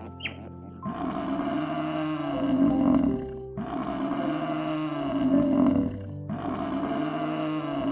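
A large animal roaring three times, each call lasting about two and a half seconds, over held notes of background music.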